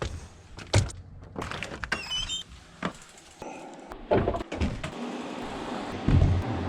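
Mountain bike clattering over sticks and roots: scattered knocks and cracks, with a short high squeak about two seconds in.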